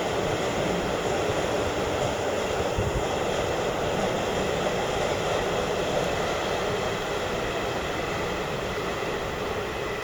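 Electric train running at the station: a steady rush of rolling noise with a faint high whine, easing slightly near the end.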